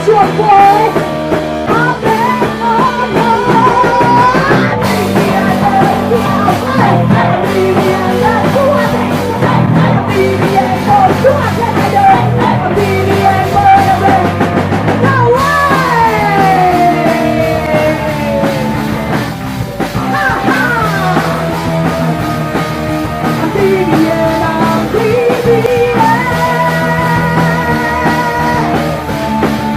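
Punk rock band playing live and loud, with a woman's voice singing and yelling over electric guitars and drums.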